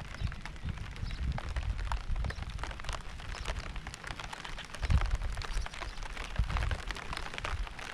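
Rain falling steadily, with many separate drops tapping sharply on a surface, and irregular low rumbling thuds underneath that peak about five seconds in.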